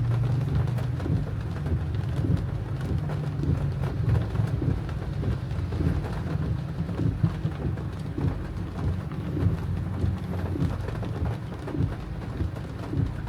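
Heavy tropical rain drumming on a car's roof and windshield, heard from inside the cabin over a steady low rumble.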